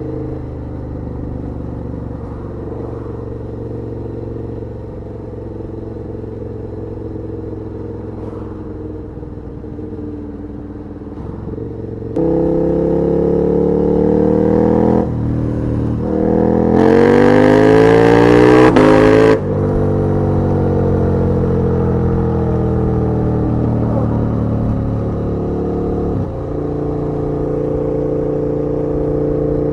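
KTM 1290 Super Duke R's V-twin running steadily while riding, then opened up about twelve seconds in: revs climb, dip briefly at a gear change, climb again to the loudest point with a rushing noise, and cut off suddenly. The revs then fall slowly as the bike slows, before settling back to a steady run near the end.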